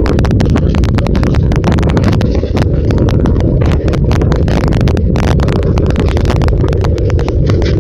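Passenger train running over a steel truss bridge: a heavy, steady rumble with rapid, irregular clatter of wheels over the bridge track.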